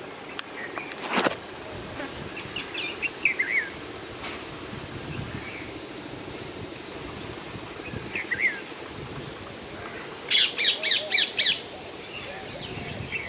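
Parrots calling: scattered short chirping calls, then a run of about six loud, harsh calls a little after ten seconds in, over a steady high insect trill.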